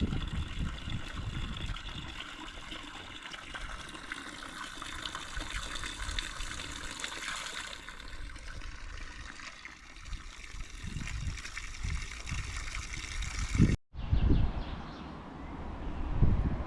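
Water trickling and splashing steadily, like a village fountain or small channel. About 14 seconds in, the sound cuts off abruptly and gives way to a lower outdoor rumble.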